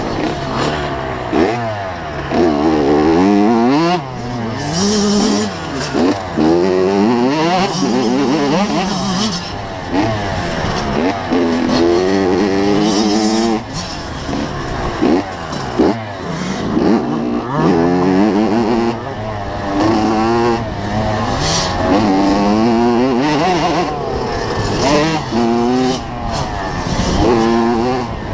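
Two-stroke 85cc motocross bike engine being ridden hard, its pitch climbing under throttle and dropping back over and over as the rider accelerates and backs off.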